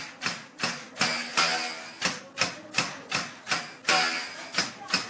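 Traditional cotton-fluffing bow, its taut string struck again and again with a wooden mallet, about three twanging strikes a second, each with a short ringing tone that dies away.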